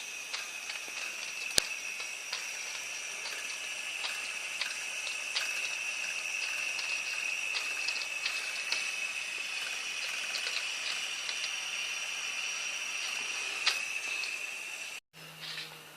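Homemade non-powered fishing boiler heating: a steady high-pitched hiss with many small irregular ticks and crackles, a sharp click about a second and a half in and another near the end, cutting off shortly before the end.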